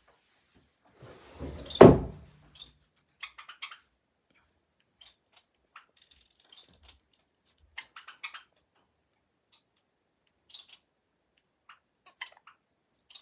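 A single loud thunk about two seconds in, then sparse light clicks and taps scattered through the rest.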